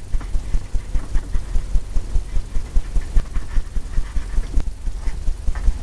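Brush scrubbing and tapping oil paint onto a stretched canvas: a quick, uneven run of dull low thumps, about four a second, with a faint scratch of bristles.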